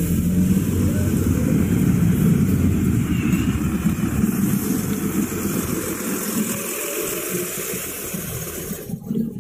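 A car engine running close by, a steady low rumble that eases after about four seconds and cuts off near the end.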